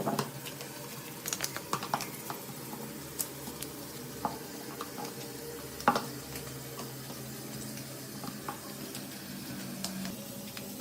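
Irregular light clicks, taps and clinks of hand tools and small metal parts being handled, one sharper knock about six seconds in, over a steady low hum.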